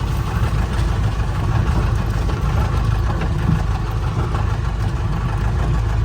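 Mahindra 4x4 jeep's engine running with a steady low rumble.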